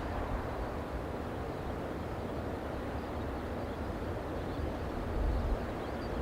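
Strong wind buffeting the microphone in low gusts over a steady rushing noise.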